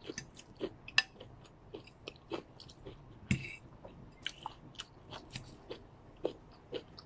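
Close-up chewing of stir-fried noodles with crunchy vegetables: an irregular run of short crunches and mouth clicks, with one louder knock about halfway through.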